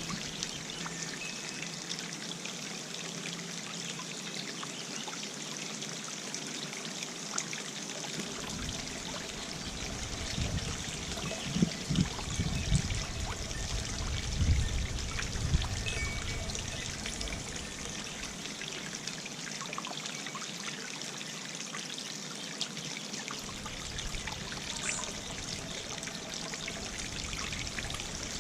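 Water from a garden fountain trickling and splashing steadily. In the middle stretch, gusts of wind rumble on the microphone for several seconds.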